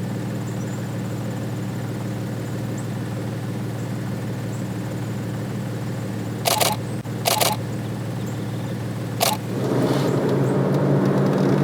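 A vehicle's engine idles with a steady low hum while a DSLR shutter fires in three short bursts of clicks in the second half. Near the end the engine sound swells louder.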